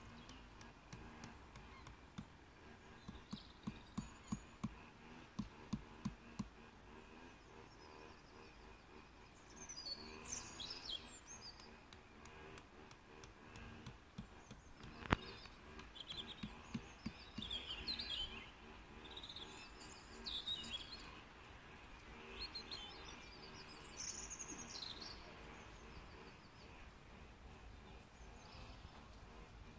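Small birds chirping in short scattered bursts over faint outdoor background noise. A run of soft low knocks comes in the first few seconds, and a single sharp click about halfway through.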